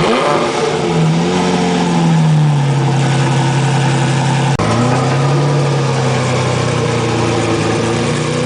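A sports car's engine runs with a light rise in revs about a second in, then settles to a steady idle. The sound breaks off for a moment about four and a half seconds in.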